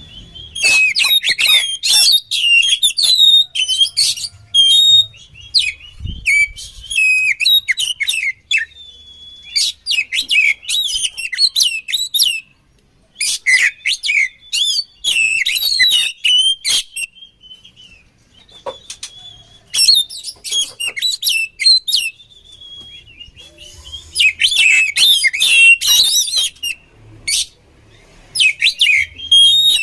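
Oriental magpie-robin (kacer) singing loud, fast, varied phrases of chirps and whistles, each a few seconds long, with short pauses between them.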